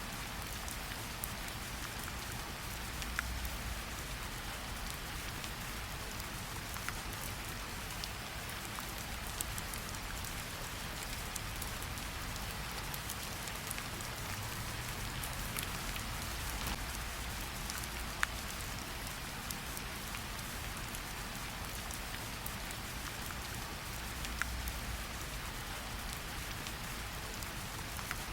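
Steady rain falling on tree leaves, an even patter with occasional distinct drops striking close by.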